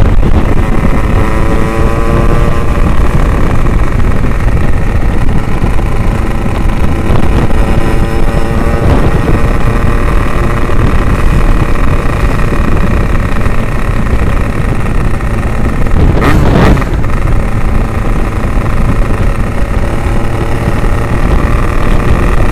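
Yamaha RX-King 135cc two-stroke single-cylinder engine running on the road through an Abbox C20 aftermarket exhaust, its pitch rising and falling with the throttle, with wind on the microphone. A short rushing burst about three-quarters of the way through.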